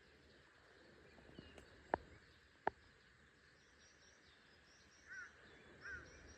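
Birds chirping faintly in short repeated calls over a quiet outdoor hiss, with two sharp clicks less than a second apart about two seconds in.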